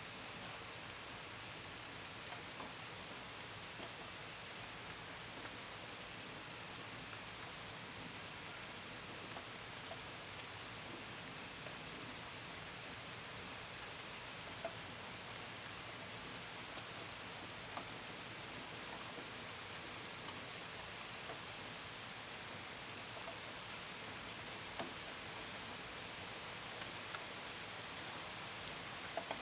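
Steady gentle rain with scattered drips pattering on a window and gutters, under a continuous high chirping of crickets.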